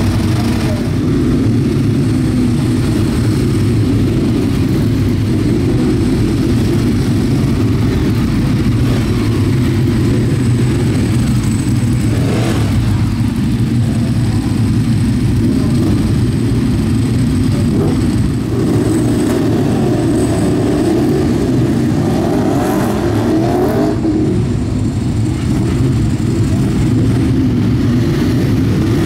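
Ducati 848's L-twin engine running continuously at track speed, heard onboard the motorcycle.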